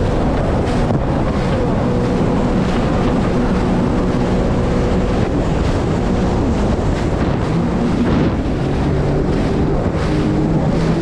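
Jet ski engine running at speed, its pitch drifting up and down, with heavy wind buffeting the microphone and water rushing past the hull.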